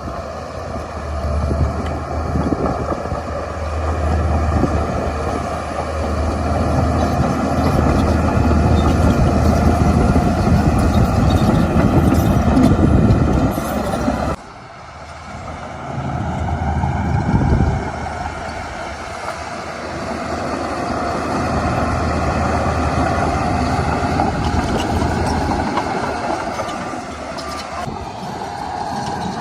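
Shantui crawler bulldozer working: its diesel engine runs loud and steady under load, with rattling from the tracked machine. The sound drops off sharply about halfway through, then builds back up.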